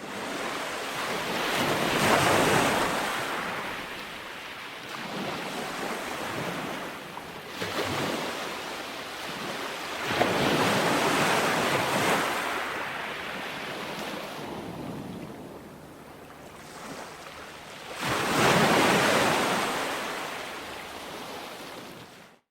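Ocean waves rolling onto a shore: a steady wash of surf, with three louder surges about eight seconds apart as waves break.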